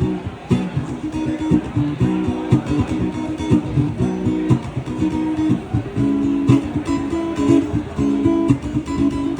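Acoustic guitar strumming chords in a steady rhythm: an instrumental passage of a song, with no singing.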